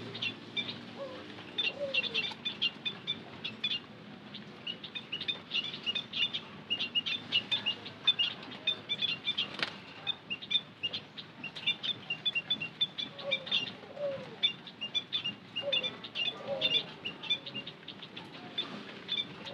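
White-headed munias chirping: a dense, continuous run of short, high chirps that overlap, with a few lower falling notes now and then.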